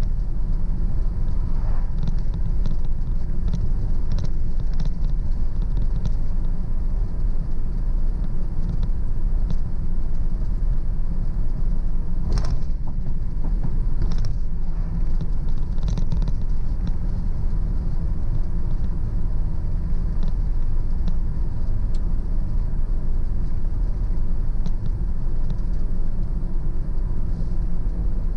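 Car driving steadily on a road: a constant low rumble of tyres and engine, with a few brief clicks or rattles about halfway through.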